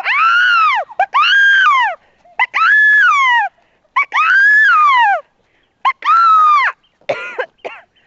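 A child shrieking five loud, high-pitched cries in a row, each about a second long, rising and then falling in pitch. Shorter, rougher cries follow near the end.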